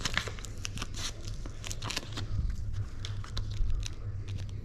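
Vinyl sticker sheets being handled and peeled, a run of irregular crinkles and crackles, over a steady low hum.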